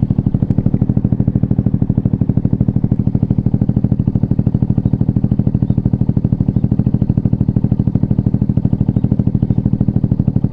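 Yamaha TW225's single-cylinder four-stroke engine idling steadily, a rapid even putter of firing pulses.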